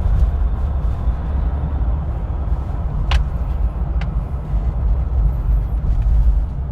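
Steady low rumble of a 2021 Jeep Wrangler's 3.0-litre turbo-diesel V6 and its tyres on the road, heard from inside the cabin while driving. Two light clicks come about a second apart near the middle.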